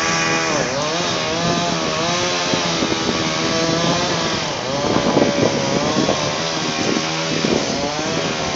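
Chainsaw running steadily, its engine pitch dipping and rising several times.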